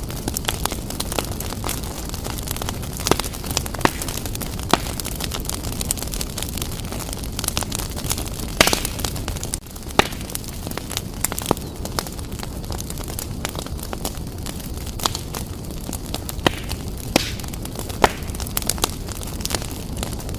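Wood fire burning vigorously in a fireplace: a steady low rumble of flames with irregular sharp crackles and pops from the burning logs, a few of them louder snaps.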